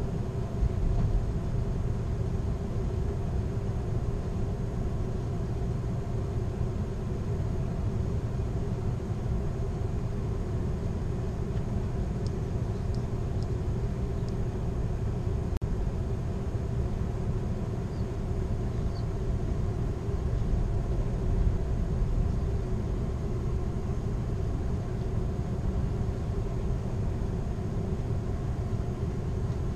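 Steady low rumble of the Amtrak California Zephyr passenger train rolling along the track, heard from inside the rear car, with a few faint high ticks around the middle.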